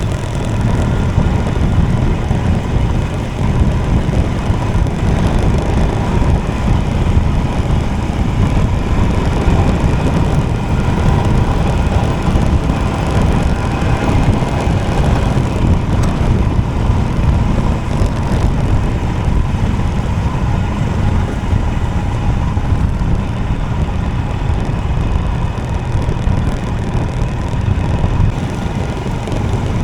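Motorcycle riding on the road, heard from on the bike: a steady engine drone under heavy wind rumble on the microphone, with no changes in pace.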